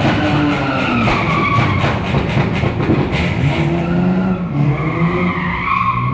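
A car drifting: its tyres squeal in wavering screeches over the engine, which revs up and down.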